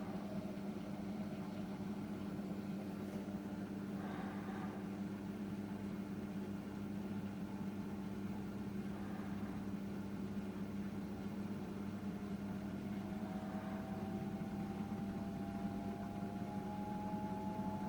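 Samsung WW900 washing machine running its Super Speed rinse, the drum turning with a steady low motor hum and a few soft swishes. From about two-thirds through, a faint whine rises slowly in pitch as the motor speeds up.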